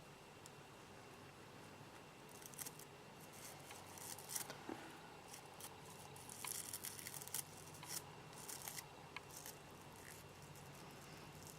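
Small scissors snipping at succulents while pruning: faint, scattered crisp snips and rustles, starting about two and a half seconds in.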